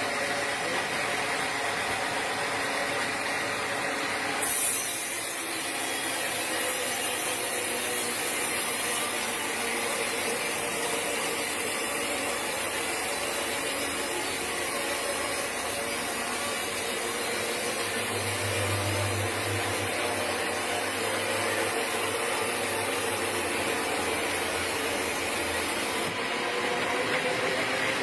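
Sawmill machinery running steadily, with a high hiss that comes in abruptly about four seconds in and stops near the end.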